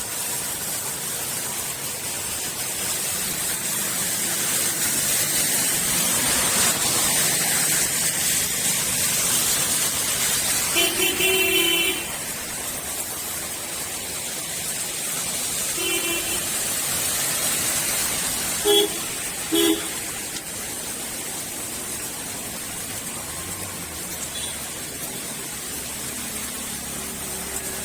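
Steady rain hissing, with vehicle horns honking over it: one longer honk, a shorter one a few seconds later, then two quick toots close together.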